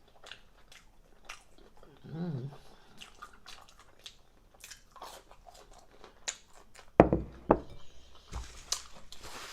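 Close-miked chewing and wet mouth clicks, with a short hum about two seconds in. Near the end come a few loud dull knocks and then a rustling hiss.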